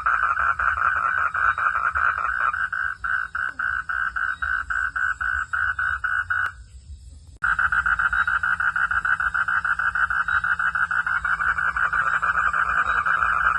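Chorus of calling frogs: a dense, rapid pulsing of calls, about five pulses a second. It breaks off abruptly for about a second midway, then resumes.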